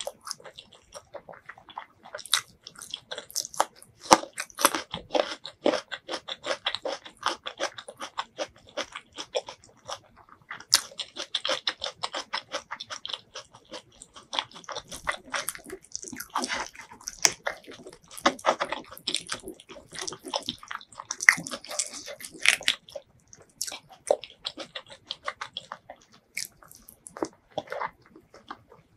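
Close-miked chewing and mouth sounds of someone eating chicken curry and rice by hand: a dense, continuous run of small clicks, smacks and crunches.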